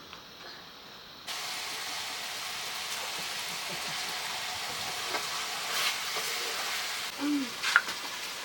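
Food sizzling as it fries in a pan, a steady hiss that starts suddenly about a second in, with a few short knocks as it is stirred.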